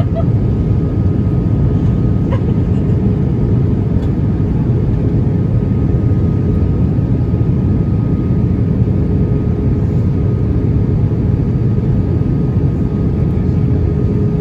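Steady cabin noise inside an Airbus A319 airliner: an even, loud rush of air and engine drone, with two faint steady tones above it.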